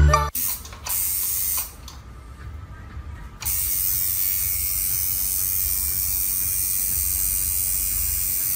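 A steady hiss, mostly high-pitched, that sets in about three and a half seconds in, after a shorter burst of the same kind of noise near the start.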